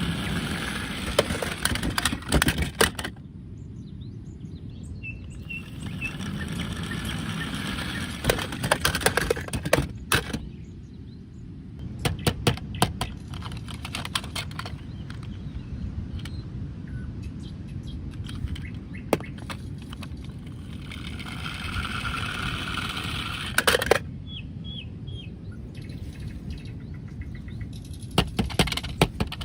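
Short high bird chirps now and then over a steady background hiss, with frequent sharp clicks and knocks in clusters.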